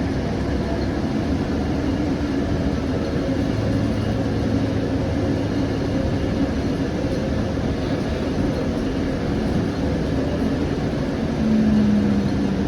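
A 2020-21 Siemens S700 light rail car heard from inside, running with a steady rumble and low hum as it comes into the station. A louder hum comes in near the end.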